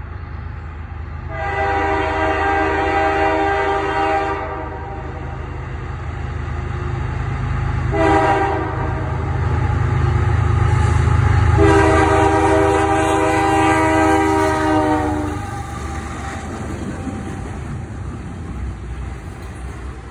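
A Kansas City Southern diesel locomotive sounds its air horn three times, long, short, long, over the steady low rumble of its engine, which is loudest about twelve seconds in as it passes. Near the end the double-stack container cars roll by, their wheels running on the rails.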